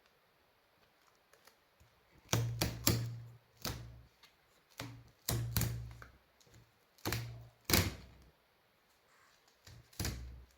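Battery spot welder firing about ten times in uneven groups, each shot a sharp clack with a short mains hum: nickel strip being welded onto the 18650 lithium-ion cells of an electric-scooter battery pack.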